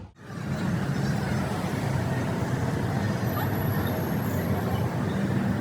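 Steady road-traffic noise.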